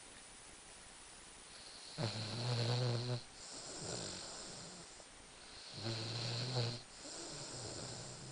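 Rhodesian Ridgeback snoring in its sleep: two loud snores about four seconds apart, each followed by a softer, breathier breath.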